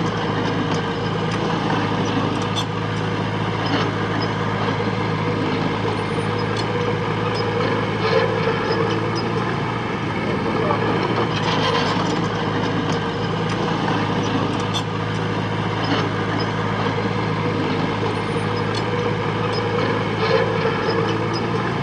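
Diesel engine of heavy earthmoving machinery running steadily under work, with short metallic clanks every few seconds.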